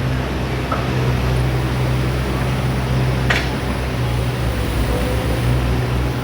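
Excavator's diesel engine running steadily, with one short sharp click about three seconds in.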